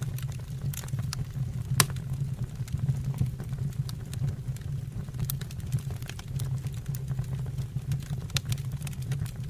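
Wood fire burning in a stove or fireplace: a steady low roar of the flames with irregular sharp crackles and pops, one louder pop about two seconds in.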